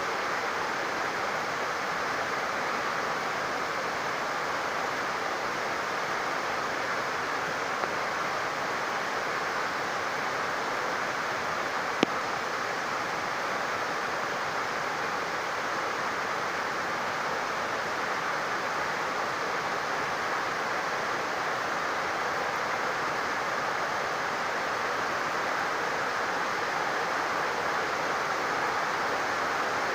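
Steady rain falling, with overflowing water running. A brief sharp click about twelve seconds in.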